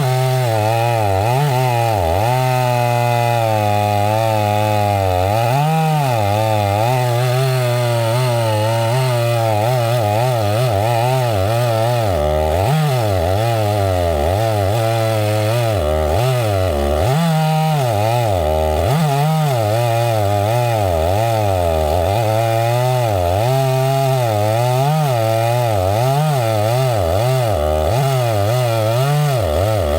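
Two-stroke chainsaw running at high revs and cutting wood, its pitch dipping and recovering over and over as the engine loads up in the cut.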